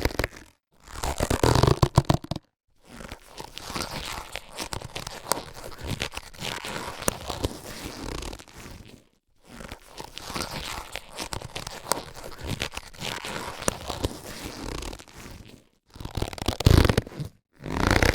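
Latex surgical gloves being handled, rubbed and stretched. There are louder stretches at the start and again near the end, with quieter continuous rubbing and crinkling between them, broken by brief pauses.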